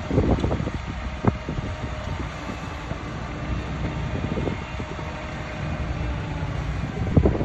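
Heavy diesel earthmoving machinery running with a steady low rumble, with a few sharp metallic clanks near the start, about a second in and near the end.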